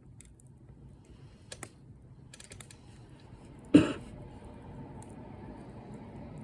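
Campfire crackling with a few faint ticks, then one loud sharp pop a little before the four-second mark, followed by a steady low rush of the flames.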